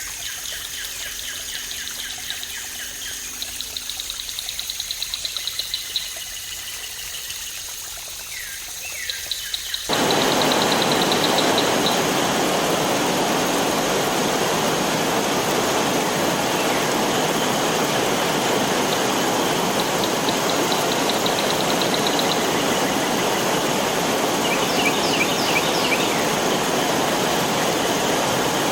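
Birds chirping in rapid trills over faintly running water; about ten seconds in, it cuts abruptly to the loud, steady rush of a waterfall, with bird trills still heard over it.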